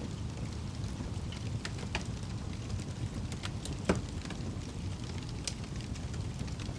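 Wood fire crackling in a fireplace: scattered sharp pops and snaps over a steady low rumble of the flames, the loudest pop a little under four seconds in.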